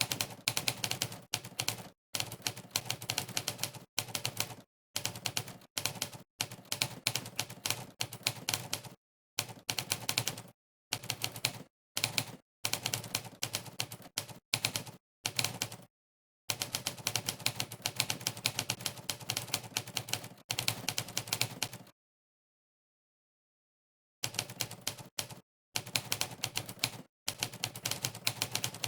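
Sampled typewriter key strikes played by a typing-test website for every keystroke, in fast runs of clicks broken by short pauses of dead silence, with one silent gap of about two seconds about three-quarters of the way in.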